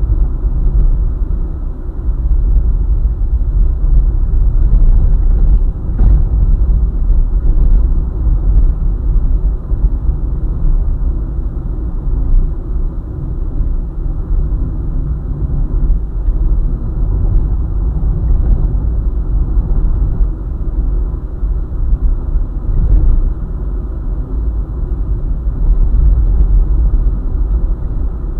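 Car driving on a highway: a steady low rumble of tyres and engine on the road.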